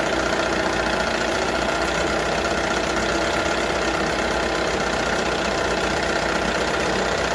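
1978 Johnson 6 hp two-stroke outboard motor running steadily at low speed, left to warm up after a water pump impeller replacement.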